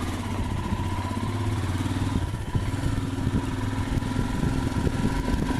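Royal Enfield Himalayan's 411 cc single-cylinder engine running under way, with a run of knocks and rattles starting about two seconds in.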